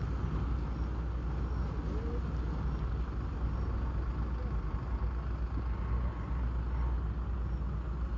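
A heavy truck's engine pulling up a slope under load: a steady low rumble.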